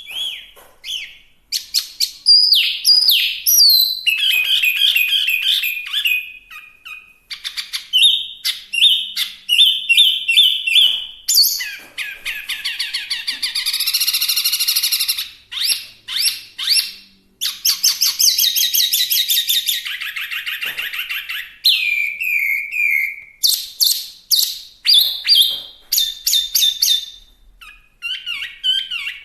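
Chinese hwamei singing a loud, varied song of clear sliding whistles, fast runs of repeated notes and buzzy trills, phrase after phrase with only brief pauses.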